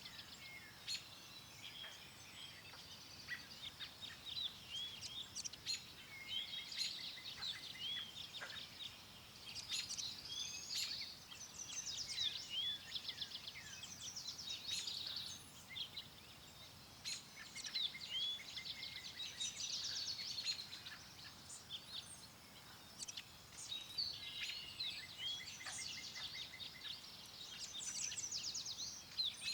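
Several songbirds chirping and trilling continuously, many calls overlapping, over a faint steady background of wind.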